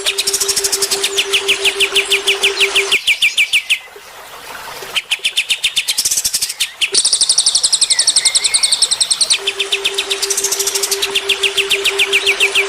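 Cage-bird song of the cililin and kapas tembak: fast runs of repeated sharp chirps, about ten a second, in spliced loops that break off abruptly, with a brief quieter gap around a third of the way in. A steady low hum sounds under the song at the start and again for the last few seconds.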